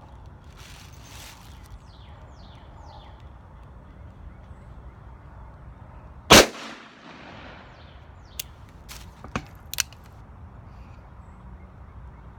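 A single shot from a Smith & Wesson 686 Plus .357 Magnum revolver firing a 158-grain hollow-point round, about six seconds in, with a short echo after it. Three fainter sharp cracks follow a couple of seconds later.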